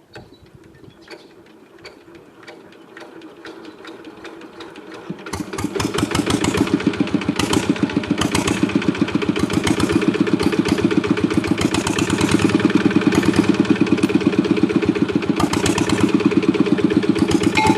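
Kubota RD105 single-cylinder diesel engine: a few faint clicks, then the engine starts about five seconds in and runs steadily with rapid, even firing pulses.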